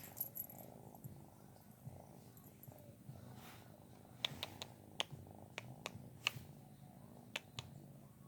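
Pet cat purring faintly, with a scatter of light clicks in the second half.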